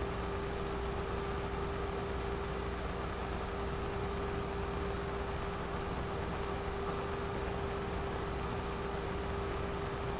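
Steady cockpit noise of a Boeing 737 in flight: an even rush of airflow and engine noise with a constant hum running through it.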